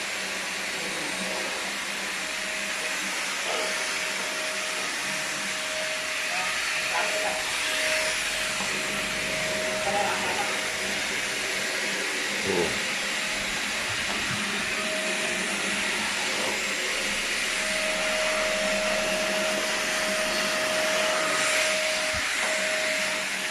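Lightweight vacuum cleaner running steadily with a rushing airflow noise, a faint steady whine fading in and out over it.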